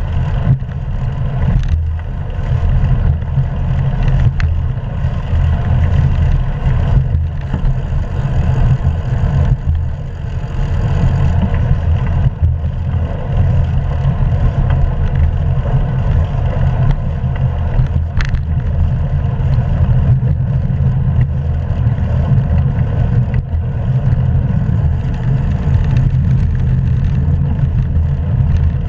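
Steady low rumble of wind buffeting an action camera's microphone while cycling, mixed with tyre and road noise from the bicycle.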